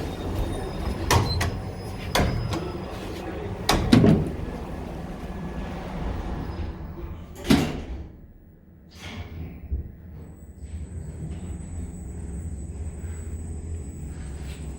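Station passenger lift: a few knocks, then the lift doors slide shut about seven to nine seconds in. The car then runs with a steady hum and a thin, steady high whine.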